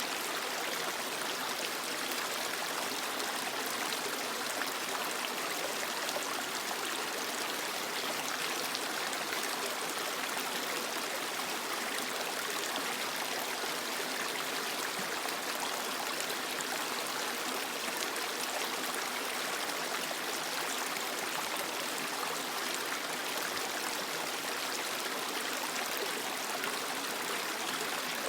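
Creek water flowing over rocks: a steady rush with fine splashing and trickling, unchanging throughout.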